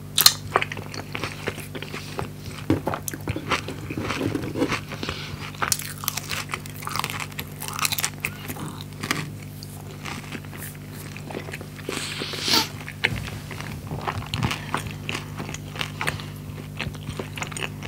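Close-miked ASMR eating: a crunchy bite into a toasted 'skepasti' pita filled with fried chicken and french fries right at the start, then steady crackly chewing with louder crunches about six and twelve seconds in. A faint steady low hum sits underneath.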